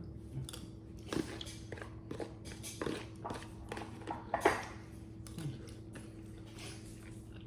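A person eating: irregular chewing and mouth smacks with small clicks, the loudest about four and a half seconds in, over a steady low hum.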